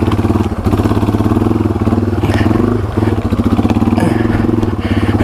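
Yamaha TW200's single-cylinder four-stroke engine running under load off-road, the throttle easing off and picking up again several times, with a few light clicks and knocks from the bike.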